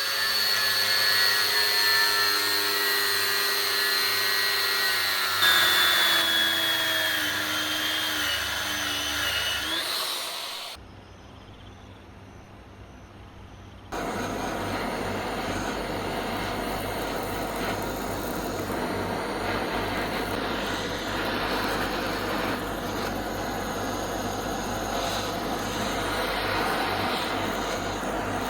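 A power tool running on the work: a steady whine that drops in pitch about five seconds in as it is loaded, then stops near ten seconds. After a short lull, a steady rough grinding or sanding noise starts about fourteen seconds in.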